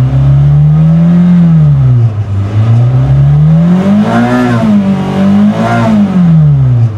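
Daihatsu Sirion's engine being revved, with no speech over it. The pitch rises and falls three times: a first rise about a second in, then a higher peak around four seconds, a brief dip, and a third peak before it falls back toward idle near the end.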